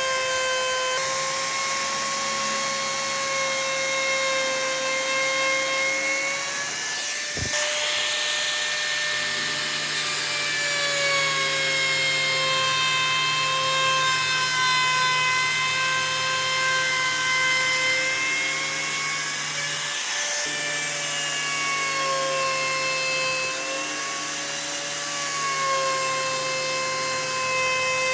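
A power tool working wood, with a steady high whine that wavers slowly in pitch. It breaks briefly about seven seconds in and again about twenty seconds in.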